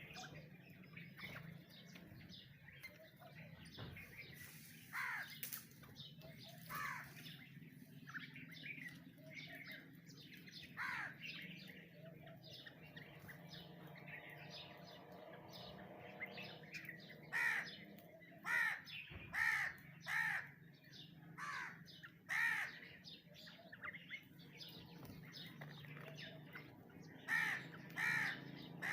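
Birds calling, with harsh, caw-like calls repeated about a second apart, loudest in the second half, over a steady low hum.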